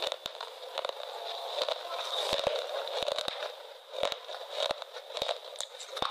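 Close-miked crunchy chewing of a thin, crisp piece of food: irregular crackles and sharp clicks, several a second.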